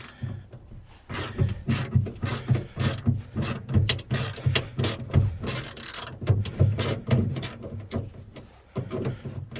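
Hand ratchet wrench clicking in quick repeated strokes as it turns a fastener loose on a minivan door handle.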